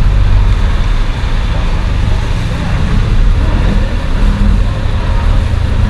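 A steady, loud low rumble of outdoor noise without clear pitch, most like road traffic.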